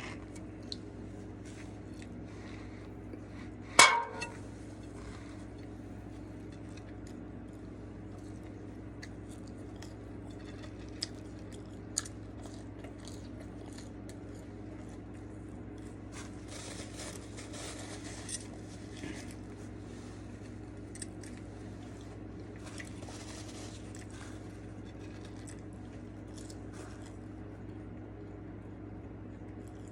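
Eating sounds from a burger, fries and soda meal: scattered small clicks and soft crunchy handling noises, with one sharp knock about four seconds in, over a steady low hum.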